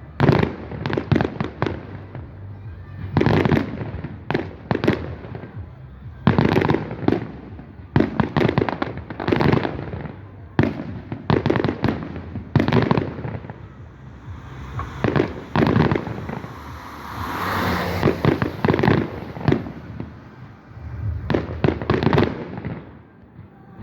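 Fireworks display: a rapid run of bangs from bursting aerial shells, some followed by crackle. About two-thirds of the way through there is a longer stretch of hissing and crackling.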